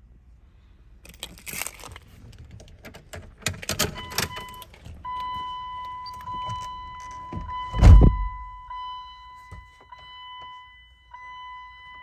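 Keys jangling and rattling, followed by a steady electronic warning chime that sounds from about four seconds on. A single heavy thump comes about eight seconds in.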